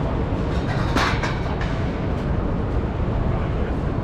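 Steady low rumble of passing vehicles, with a brief hiss about a second in.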